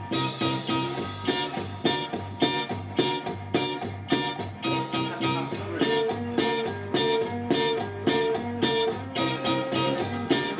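Rock band music with drums, bass and electric guitar playing an instrumental passage with a steady drum beat, heard through a live mixing system.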